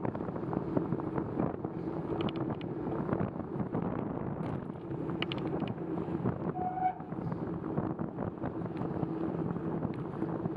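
Wind rushing over the microphone of a camera on a moving bicycle, with tyre noise on wet pavement.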